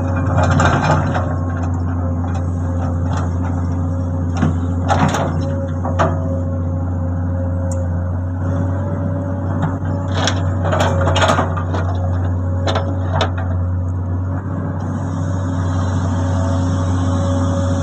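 Komatsu hydraulic excavator's diesel engine running steadily while it loads a dump truck, with scattered knocks and clatter as loads of material drop into the truck bed.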